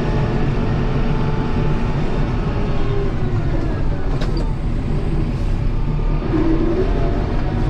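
Kubota M7060 tractor's diesel engine running, its pitch drifting down and back up as it works.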